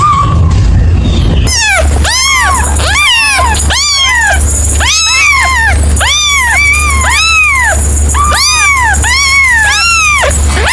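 An animal calling over and over, a rapid run of short calls that each rise and then fall in pitch, starting about a second and a half in. A steady low hum runs under the calls.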